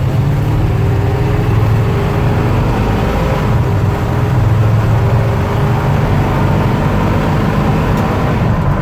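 1974 Chevy K10 pickup's engine pulling under acceleration. Its note climbs in pitch over the first few seconds, then holds steady.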